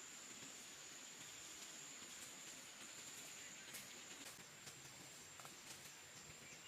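Faint, steady high-pitched drone of insects, with a few soft clicks.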